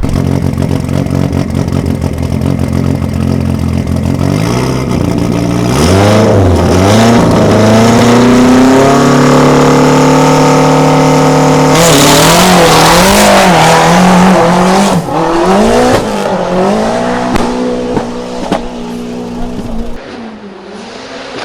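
Race car engine under hard acceleration, its note climbing and dropping back in steps as it goes up through the gears, then wavering up and down with the throttle; it turns quieter near the end.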